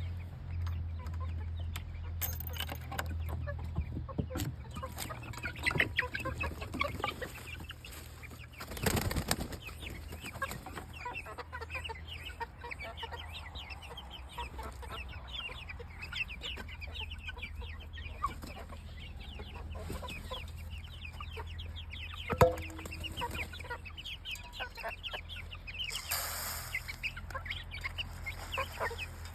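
A group of chicks peeping nonstop, many short high cheeps overlapping, over a steady low hum. A brief rustle comes about 9 seconds in and again near the end, and one sharp knock sounds about 22 seconds in.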